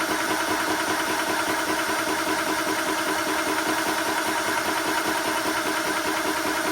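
TOAUTO A1X portable high-pressure air compressor running steadily.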